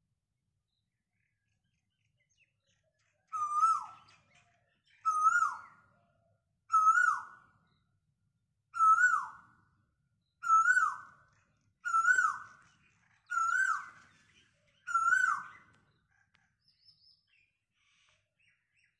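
A bird calling eight times, about every one and a half to two seconds. Each call is a short, loud note that rises slightly and then drops sharply in pitch.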